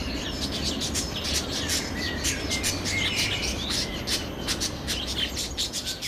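Birds chirping: rapid short sharp chirps, several a second, with a few brief whistled notes that glide in pitch, over a low steady background rumble.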